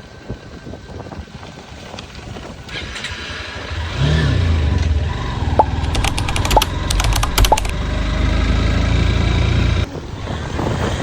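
Motorcycle engine starting about four seconds in and running with a loud low rumble. A few sharp clicks come midway, and the engine sound drops away near the end.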